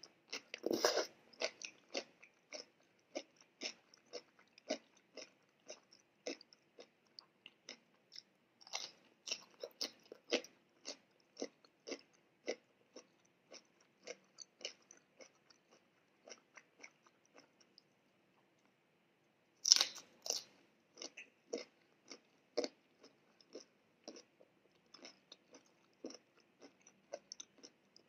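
Close-miked eating: a steady run of crunching bites and chewing, with a piece of broccoli among the mouthfuls. A loud crunchy bite comes about a second in and another about two-thirds of the way through, the second right after a short pause in the chewing.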